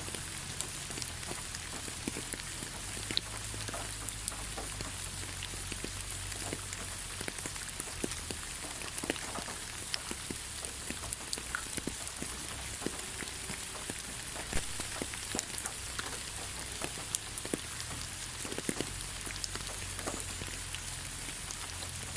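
Steady rain falling in a forest, a continuous hiss with individual drops tapping close by at irregular moments.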